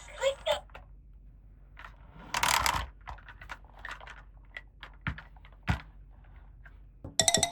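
Small clicks and taps of plastic toy pieces being handled, with one brief rustling scrape about two and a half seconds in. Near the end a battery toy's electronic tune starts.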